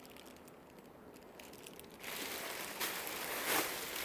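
Dresses being handled and moved, crinkling and rustling, starting about halfway through with a few sharper crackles.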